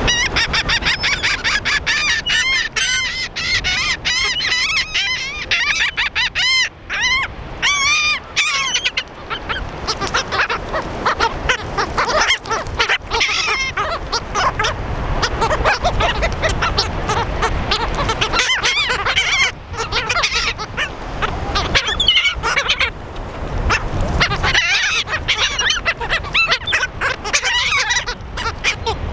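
A flock of birds squawking and calling over scattered snack food, many short harsh calls overlapping in a dense, continuous chorus.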